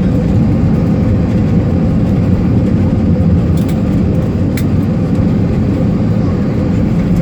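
Airliner cabin noise as the aircraft rolls on the ground just after landing: a loud, steady rumble of engines and wheels with a low hum.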